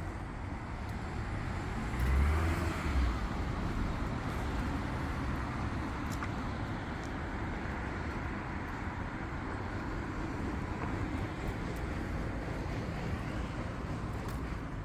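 Street traffic noise, a steady hum of passing cars, with one vehicle going by close with a louder low rumble about two seconds in.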